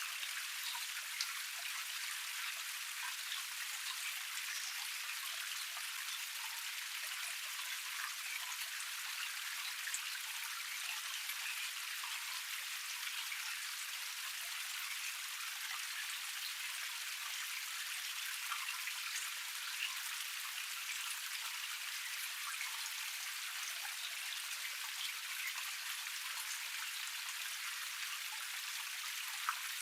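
Water of a small forest cascade running over rocks: a steady, thin hiss of splashing without low rumble, flecked with small drips and a few louder splashes.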